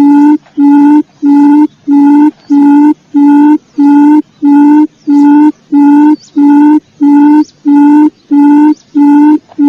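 Quail lure call: a loud, evenly repeated low hooting note, a little under two notes a second, each note a steady tone.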